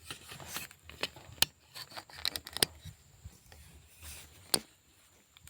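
Handling noise close to the microphone: a few sharp clicks, the loudest about one and a half, two and a half and four and a half seconds in, with scraping and rustling between them.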